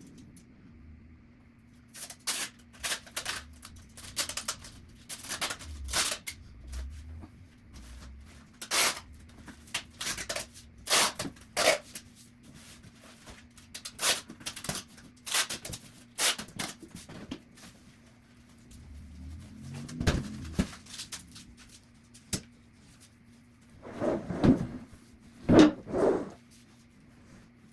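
Household tidying noises at double speed: a quick run of sharp clicks, rattles and knocks as objects are handled and put away, with a few louder knocks near the end over a steady low hum.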